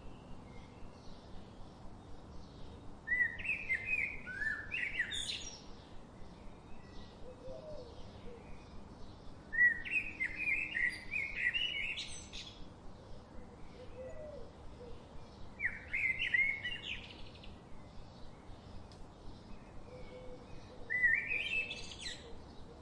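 A songbird singing four short warbling phrases, one about every six seconds, over fainter background bird chirps.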